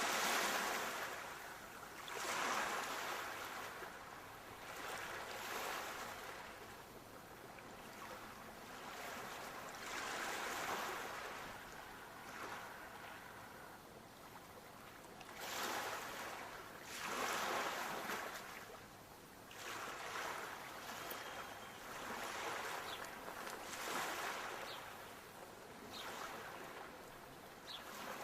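Sea waves breaking, the surf swelling and falling back every few seconds.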